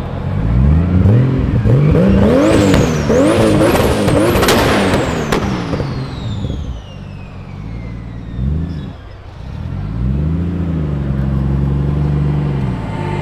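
Supercar engine revved hard several times in quick succession, its pitch rising and falling with each rev, then one short blip and a longer rev held steady near the end. A thin high whine falls slowly in pitch after the first burst of revs.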